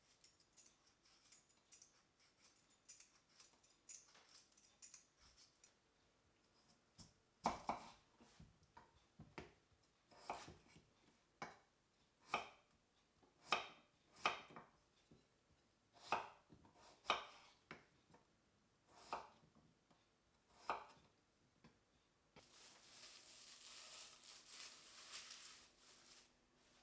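Kitchen knife cutting food on a cutting board: slow, separate cuts about one every second or so, with light faint ticking before them. Near the end comes a few seconds of steady hiss.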